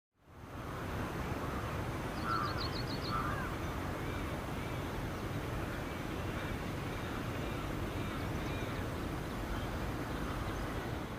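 Weaver birds calling over steady background noise: a quick run of short high notes and a couple of harsh calls about two seconds in, then a string of short repeated chirps.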